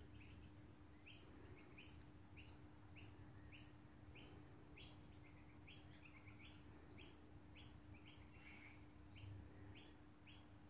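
Faint bird chirping, short chirps repeated about two or three times a second, over a low steady hum. A short electronic beep sounds about eight and a half seconds in.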